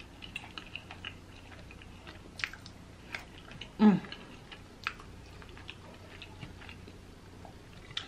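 Close-up chewing and wet mouth sounds of a person eating a mouthful of fish and rice, with scattered small clicks. A short, loud hummed "mm" about four seconds in.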